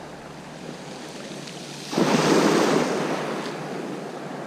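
Sea waves washing on a beach, one wave breaking about two seconds in and then fading away.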